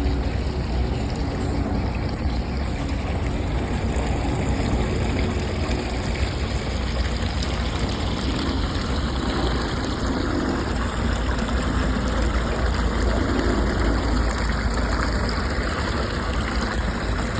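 Small stream running steadily, a continuous rush and trickle of flowing water.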